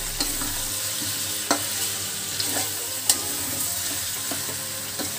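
Chicken and ground-spice masala sizzling in an aluminium kadai while a metal spatula stirs and scrapes through it, with several sharp knocks of the spatula against the pan, the loudest about one and a half and three seconds in. The masala is starting to stick to the pan as it dry-fries.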